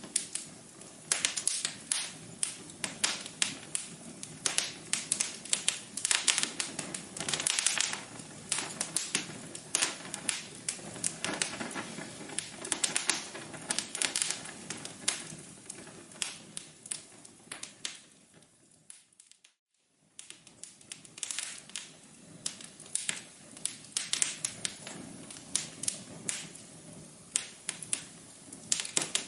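Wood fire crackling in a fireplace, with a steady run of irregular sharp pops and snaps over a soft hiss. About two-thirds of the way in it fades almost to silence for a moment, then the crackling returns.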